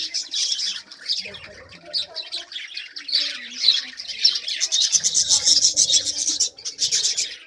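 Pet lovebirds chattering: many high, rapid chirps and squawks overlapping, thickening into a fast run of chirps about five seconds in.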